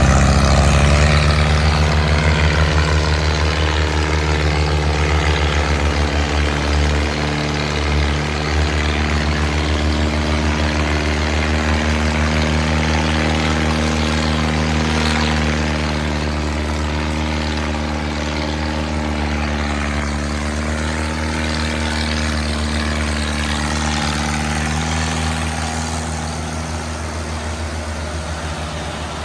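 Mahindra Arjun tractor's diesel engine running at a steady, even pitch while hauling a fully loaded wood trolley, with a small change in pitch near the end.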